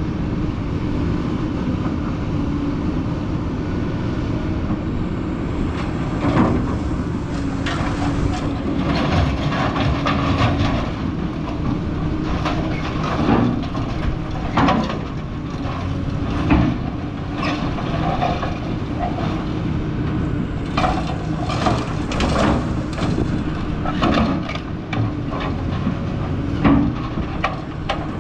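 A heavy scrap-yard machine runs steadily while scrap metal clanks and crunches at irregular moments, likely a shear cutting and handling metal.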